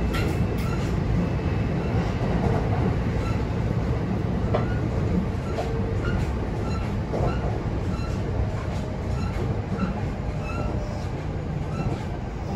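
Running noise of a Kintetsu 9020 series electric train, heard from inside the passenger car: a steady low rumble with clicks from the wheels and short high squeaks now and then. It eases off slightly near the end.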